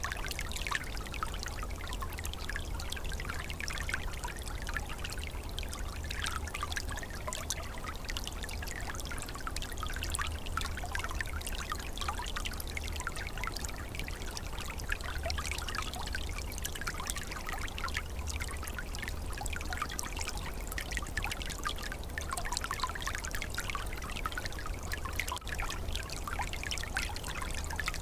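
Small calm stream trickling and gurgling steadily, with a continuous low rumble underneath.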